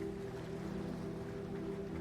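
Soft ambient music of held, unchanging low tones over a gentle wash of ocean waves.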